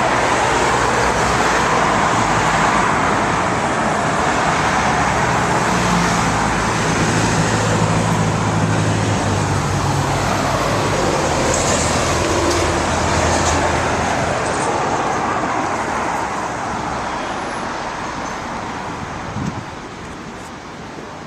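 City street traffic noise: a steady rush of passing vehicles, with a motor vehicle's engine droning low through the middle. It fades gradually near the end.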